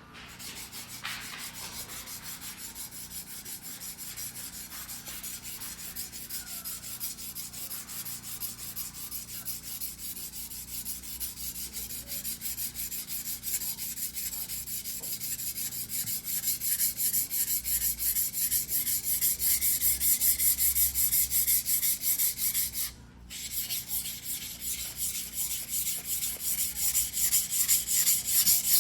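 A single-bevel sashimi knife blade (white-steel fugu-hiki) being sharpened by hand on a wet whetstone: fast, regular back-and-forth strokes of steel grinding on stone, growing louder over the stretch, with one brief pause near the end.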